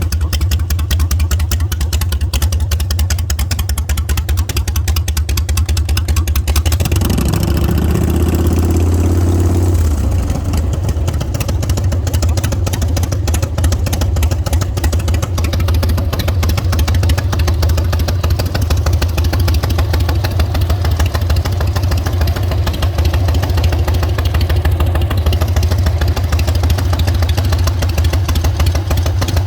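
Custom show motorcycle with two S&S engines idling with a steady low beat. Revved once about seven seconds in and held for roughly three seconds, then dropping back to idle.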